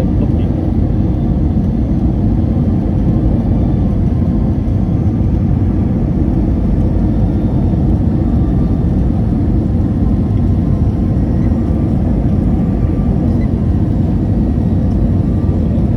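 Steady drone of engines and airflow heard inside a passenger airliner's cabin, loud and deep, without change.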